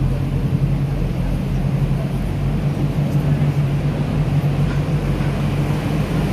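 Sightseeing boat's engine running with a steady low hum, with the wash of water and air around the hull.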